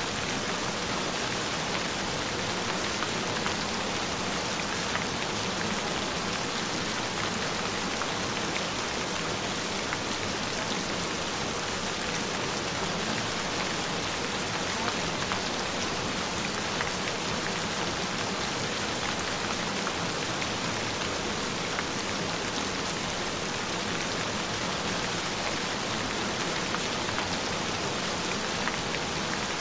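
Steady gentle rain falling, an even hiss with no breaks, with a faint steady tone underneath.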